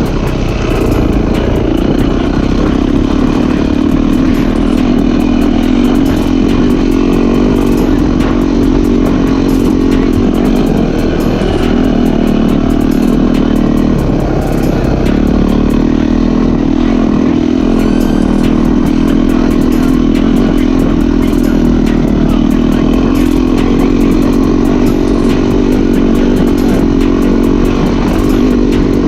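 Yamaha YZ450F motocross bike's single-cylinder four-stroke engine running steadily while riding, with a brief ease-off about halfway through.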